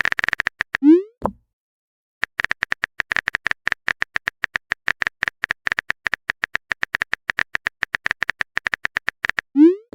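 Typing sound effect for a text chat: a fast, irregular run of small clicks, with a pause after about a second. A short rising pop-like tone, like a message alert, sounds about a second in and again near the end.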